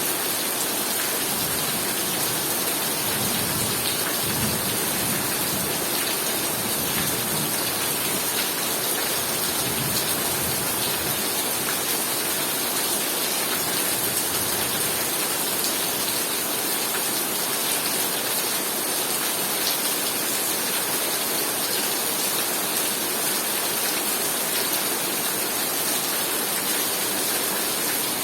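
Heavy rain pouring steadily, a dense even hiss of drops, with a brief low rumble about four seconds in.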